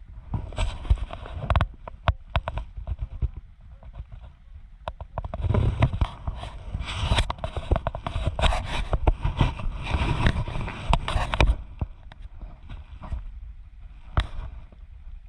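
Wind buffeting and rubbing on a microphone, a heavy low rumble with dense irregular crackle and knocks. It is loudest from about five seconds in to about eleven and a half seconds, then drops back to quieter rumble with one sharp knock near the end.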